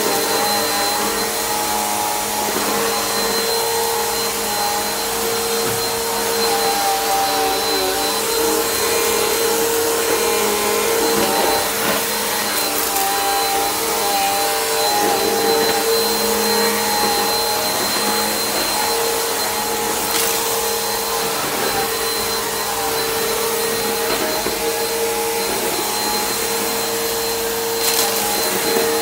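Bissell PowerForce Helix upright vacuum cleaner running steadily, a constant motor hum with a thin high whine on top. A few brief knocks come through as it is worked across the floor.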